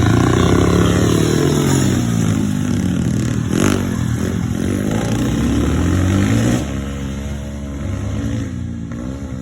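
Small motorcycles (postie bikes) riding past at speed, engines revving with pitch rising and falling as they go by; the level drops noticeably about two-thirds of the way through.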